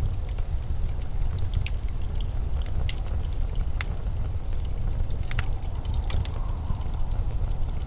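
Steady low rumble of blizzard wind, with scattered sharp crackles and ticks throughout.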